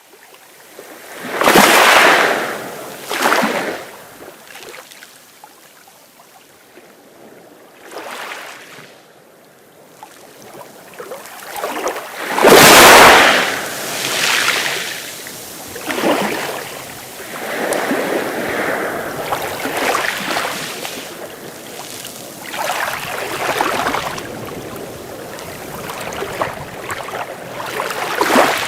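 Sea waves breaking and washing in, in irregular surges, the loudest breaks about two seconds in and again around thirteen seconds in, with a lower hiss of surf between them.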